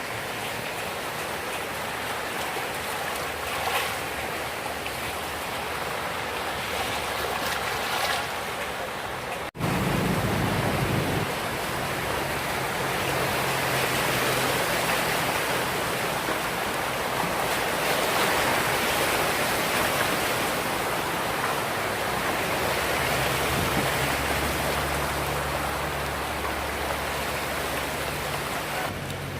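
Fast-flowing floodwater rushing in a steady wash. The sound changes abruptly at a cut about ten seconds in, after which a low hum joins it at times.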